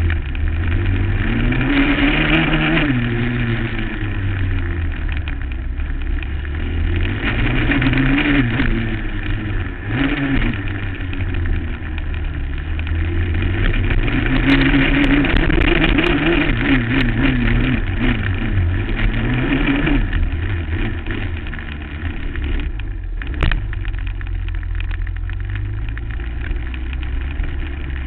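Suzuki LT-R450 quad's single-cylinder four-stroke engine, heard from a helmet camera, revving up and dropping back again and again as it is ridden over bumps and jumps. For the last several seconds the revs run lower and steadier. A single sharp knock comes about 23 seconds in.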